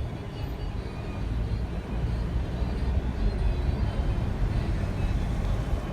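Motorboat engine running, a steady low rumble that grows a little louder about two seconds in.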